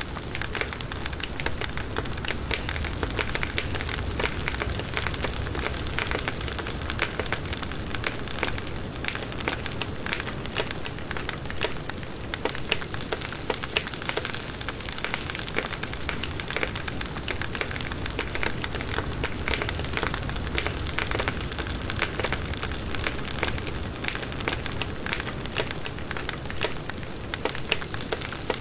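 Firewood burning in a campfire: a steady hiss of flames with dense, irregular crackles and pops from the logs.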